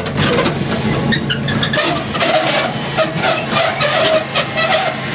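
Riding lawn mower engine running steadily, heard close up with loud crackling noise over it.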